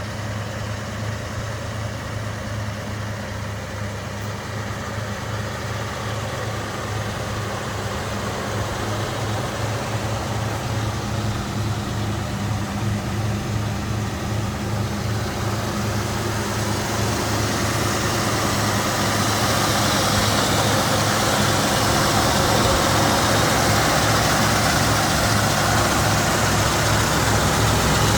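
1964 Ford Fairlane's 289 V8 idling steadily through dual exhaust, with a low even throb, growing gradually louder over the second half.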